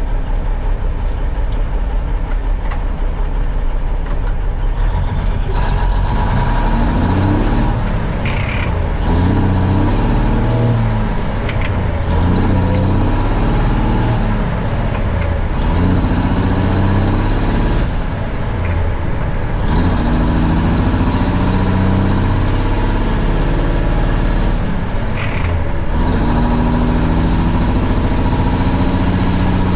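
Semi truck's diesel engine pulling, its revs climbing and falling again and again as the driver shifts up through the gears. Two short sharp sounds cut through, about 8 s in and near the end.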